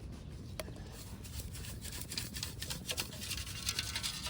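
Faint scraping and scattered light clicks of a metal detecting scoop digging into the playground ground for a shallow target.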